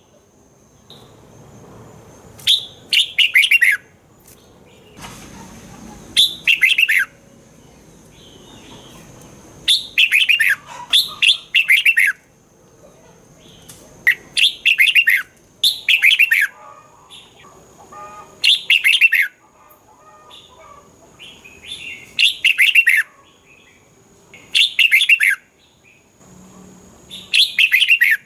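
Red-whiskered bulbul singing: short, bright, warbled phrases repeated every one to three seconds, each a quick run of notes sliding downward in pitch.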